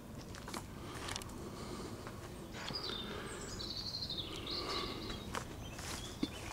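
Outdoor background ambience: a bird sings faintly in the background for a couple of seconds midway, over a low steady rumble with a few light clicks.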